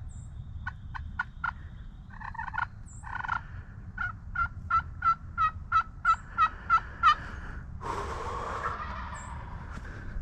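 Wild turkey calling: a few sharp notes, then a run of about a dozen evenly spaced yelps at roughly four a second, followed near the end by a longer rough, rattling call.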